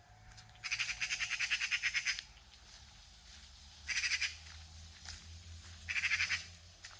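A bird's harsh, rapid chattering call in three bursts: one lasting about a second and a half, then two short ones a couple of seconds apart.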